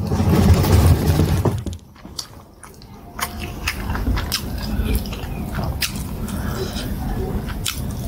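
Close-miked eating sounds: wet chewing and lip-smacking of plantain fufu and soup eaten by hand, with many sharp sticky clicks. There is a louder low sound during the first second and a half.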